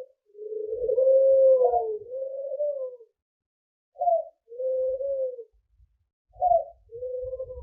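A bird's low cooing calls, repeated: each phrase is a short higher note followed by a longer, smooth, slightly wavering note, with pauses of a second or so between phrases.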